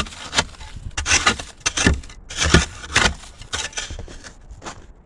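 A blade scraping and chipping softened ice off a wooden deck in a series of uneven strokes, the thawing ice coming right up.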